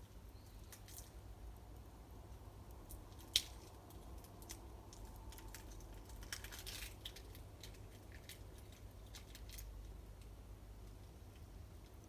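Wood campfire crackling, with irregular small snaps and one sharper pop about three and a half seconds in.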